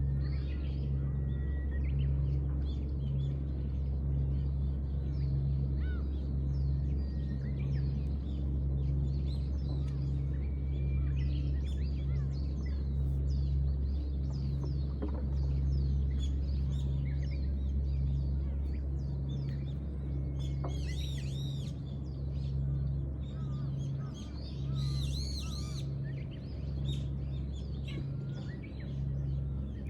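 Small birds chirping and calling on and off, with a brighter burst of calls a little after two-thirds of the way through. Under them runs a steady low machine hum that throbs about once a second.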